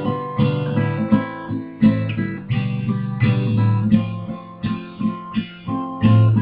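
Acoustic guitar playing alone between sung lines, a steady run of plucked and strummed notes over ringing bass notes.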